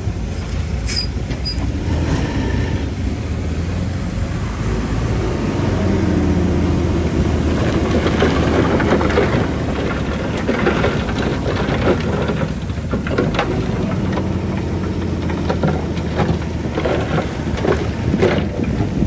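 Shantui DH-17C3 crawler bulldozer working, its diesel engine running steadily under load while its steel tracks clank and squeal. The clanking and rattling grow busier from about eight seconds in.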